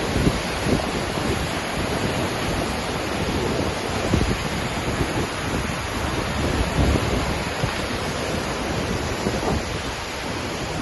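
Waterfall's steady rush of falling water, with wind gusting on the microphone in irregular low rumbles.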